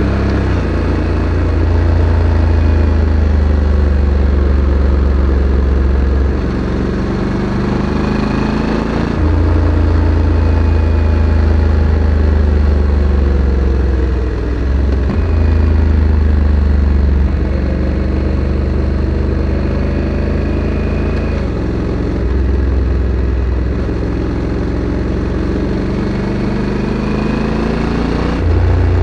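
Honda Africa Twin CRF1100 DCT's parallel-twin engine through its factory exhaust, under way: the engine note climbs with the revs and drops abruptly at each gear change, about seven times, as the dual-clutch transmission shifts.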